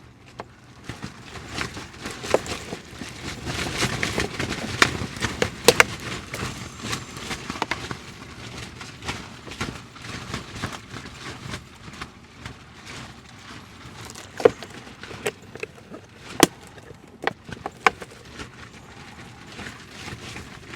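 Handling noise as an electric camp kettle is set up: scattered sharp clicks and knocks over a rustling hiss, the hiss louder a few seconds in.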